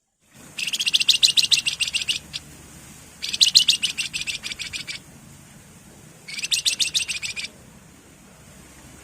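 Javan fulvetta (wergan jawa) singing three bursts of fast, rapidly repeated high notes, each about one to two seconds long, with short pauses between them.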